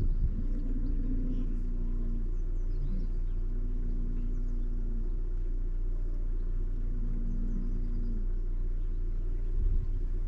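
Outdoor nature ambience: a steady low rumble underneath, low drawn-out tones repeating every two to three seconds, and faint high bird chirps.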